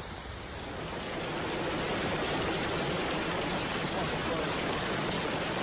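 Steady rushing noise of falling rain and running water. It swells over the first couple of seconds, then holds level.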